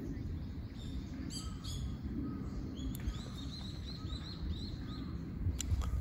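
Wild bird calling: two high chirps, then a quick run of about ten short, high notes, some four or five a second, over a low steady rumble. A sharp click comes near the end.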